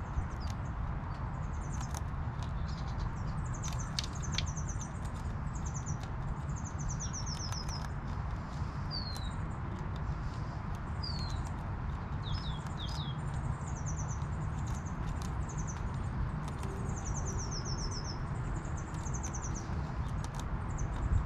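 A small songbird singing a repeated high, falling trill every second or two, with a few short down-slurred chirps between, over a steady low rumble. A few faint sharp clicks in the first few seconds fit the ground squirrel chewing its food.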